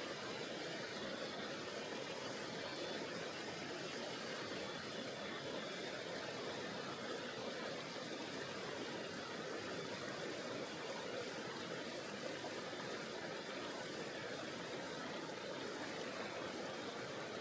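Mountain river flowing: a steady, even rush of water with no single splash or event standing out.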